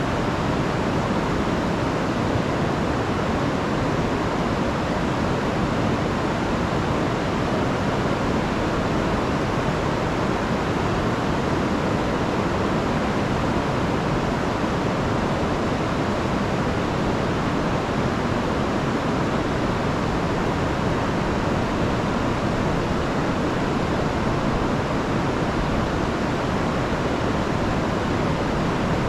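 River swollen by a week of rain, rushing over a waterfall in a steady, unbroken wash of water noise.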